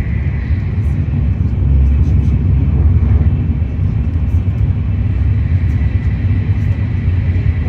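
Shinkansen Nozomi bullet train running at speed, heard inside the passenger cabin as a steady low rumble with a faint high whine.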